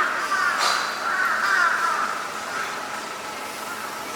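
Crows cawing, a run of repeated calls in the first two seconds that then die away, over steady background noise.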